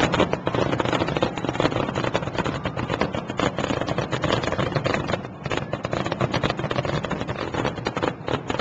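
Fireworks finale: many aerial shells bursting in rapid succession, a dense, unbroken string of booms and crackles many to the second.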